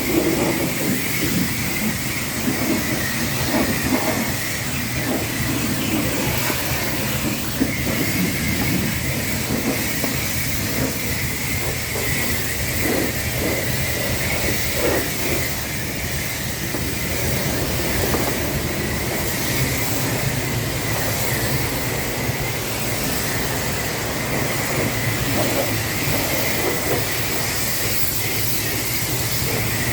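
High-pressure water spray from a self-serve car wash wand hitting a truck: a steady hiss over a constant low hum.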